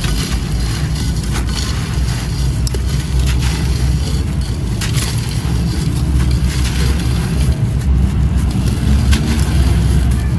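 Dry, gritty light grey concrete being crumbled and crushed: continuous crunching made of many small sharp cracks, over a steady low rumble.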